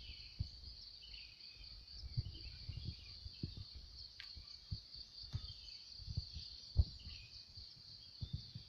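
Insects droning steadily at a high, even pitch, with scattered bird chirps below them and irregular low thumps, the loudest about two-thirds of the way through.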